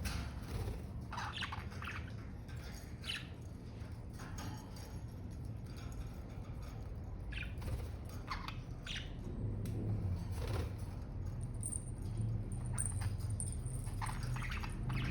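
Budgerigars chirping in short, scattered calls over a steady low hum.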